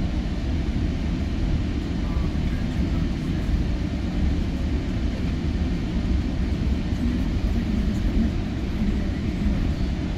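GO Transit bilevel commuter train running between stations, heard from on board: a steady low rumble of wheels on rail.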